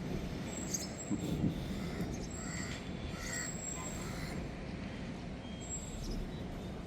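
Outdoor ambience of steady background noise with scattered faint bird calls, brief thin high chirps and a few short calls.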